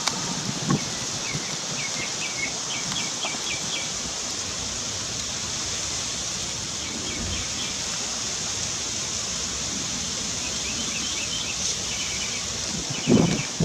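Outdoor ambience: small birds chirping in short rapid trills several times over a steady high hiss. Near the end comes a burst of louder rustling and bumping.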